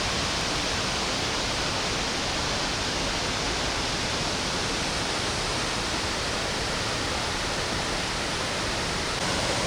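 Waterfall pouring into its pool: a loud, steady, even rush of falling water.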